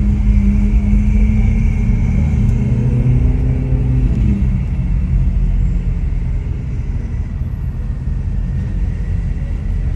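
Ferrari 488 Pista's twin-turbo V8 with an aftermarket Ryft exhaust running steadily on the move. Its pitch drops a little and eases off about four seconds in.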